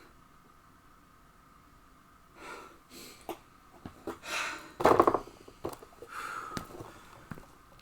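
A few short, sharp breaths and sniffs from a person, mixed with scattered small clicks, starting about two and a half seconds in after a near-quiet stretch.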